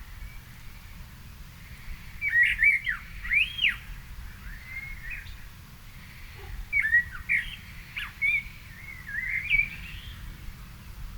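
A songbird singing two phrases of quick rising and falling notes, the first about two seconds in and the second about seven seconds in, over a steady low background rumble.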